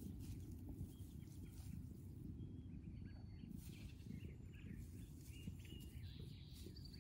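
Faint, short bird chirps scattered through, over a steady low rumble.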